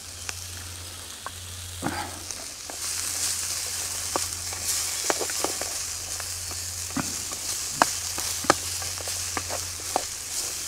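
Sliced zucchini, onions and bacon frying in a small pan on a camping gas stove, the sizzle growing louder about three seconds in. Scattered light clicks of a utensil stirring against the pan.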